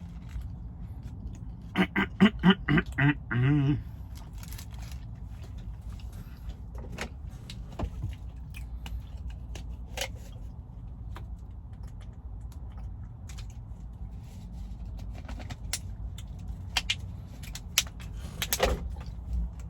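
Eating sounds with scattered clicks over a steady low rumble; about two seconds in, a quick run of about seven short pitched calls, the loudest sound, ending in a slightly longer one.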